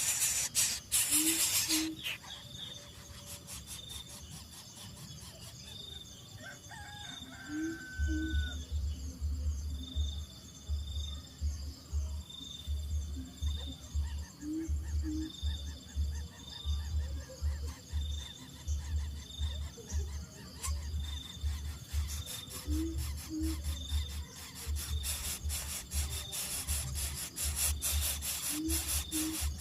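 A bird's low, short two-note call repeats about every seven seconds over a steady, regularly pulsing insect chirp. Rustling and scraping noise comes at the start and again near the end.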